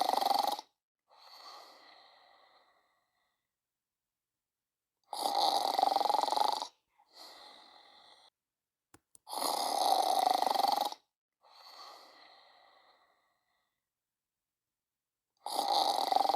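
Person snoring: a loud snore about every four to five seconds, each followed by a softer breath out with a faint whistle.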